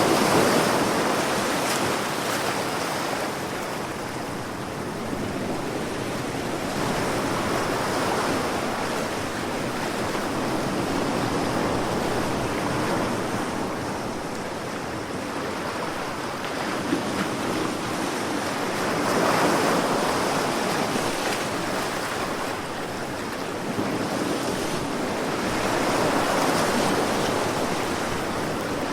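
Sea waves breaking and washing ashore in a steady rush, swelling louder every several seconds as each wave comes in.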